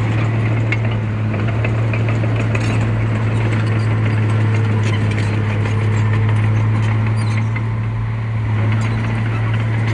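Heavy construction machine's diesel engine running steadily, a constant low drone with no change in pitch.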